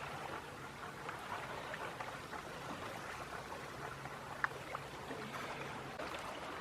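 Faint, steady rush of shoreline water with an incoming tide, a low steady hum underneath and a couple of tiny clicks about four and a half seconds in.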